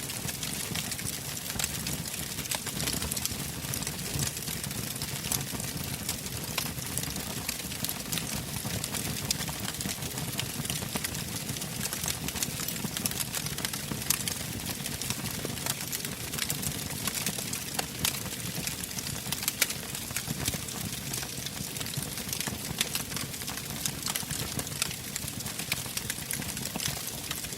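Wood fire burning in a fireplace: steady crackling with many sharp, irregular pops over a low rumble of flame.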